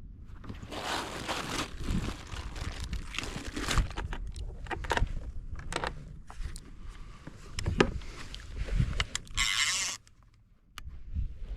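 Kayak on the water: sloshing and splashing with knocks and scrapes of gear against the hull over a low rumble. Near the end a loud hiss cuts off suddenly into a moment of near silence.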